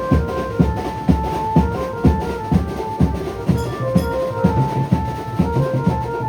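Maharashtrian banjo band playing loudly: an amplified banjo melody of quick stepping notes over a driving drum beat of about two strokes a second.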